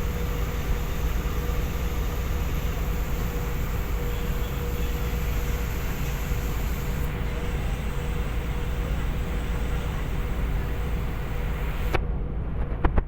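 Steady low rumble with a faint constant hum. The hiss above it drops away suddenly near the end, and two short knocks follow.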